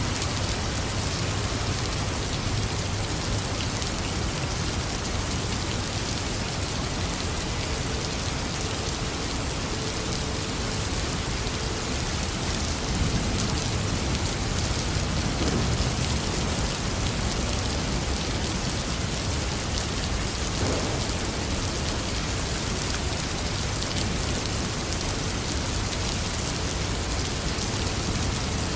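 Heavy rain falling steadily in an even hiss, with a low rumble of thunder swelling about halfway through.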